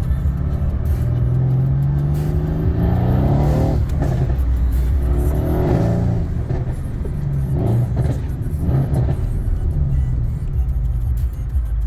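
Mercedes-AMG C63 S engine being revved: one long climb in pitch that cuts off sharply about four seconds in, then several short rev blips, with music underneath.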